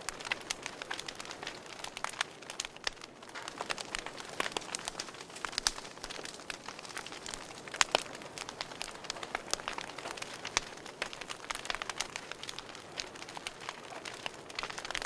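Wood fire burning in a fireplace: irregular crackling and popping over a soft steady hiss, with a couple of louder pops near the middle.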